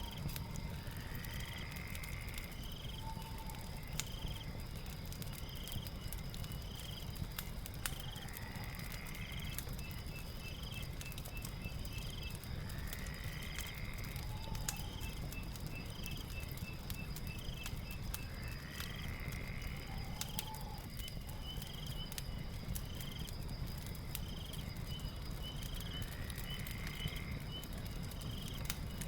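Night ambience with a crackling fire: a steady low rustle with scattered sharp crackles, under a constant high insect drone and rows of rapid chirps, with a call that comes back about every six seconds.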